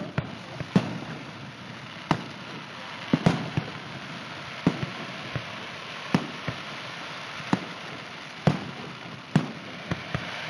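Aerial firework shells bursting in a steady run, a sharp bang about every second, some in quick pairs, over a continuous background hiss.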